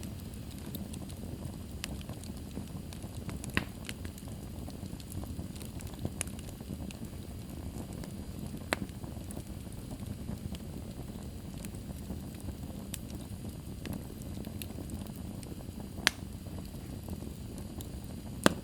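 Wood fire burning in a fireplace: a steady low rumble of flames with sharp crackles and pops every few seconds, the loudest near the end.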